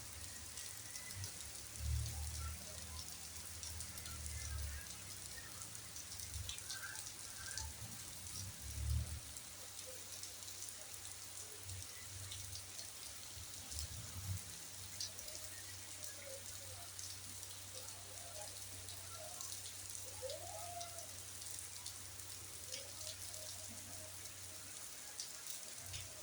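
Steady rain falling, an even hiss pattered with many small drop impacts. Low rumbling thumps, the loudest around two and nine seconds in, break in over the first nine seconds.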